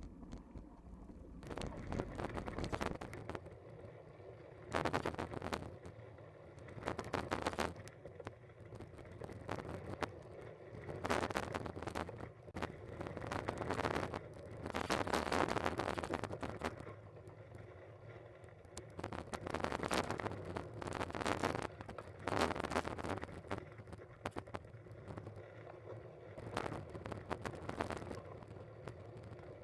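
Wind buffeting the microphone in irregular gusts, each a second or two long, over a steady low rolling rumble from a bicycle ride.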